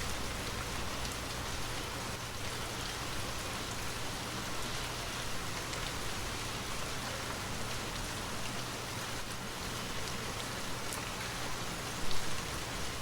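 Steady, even hiss-like noise with a low hum beneath it, and one brief louder sound about twelve seconds in.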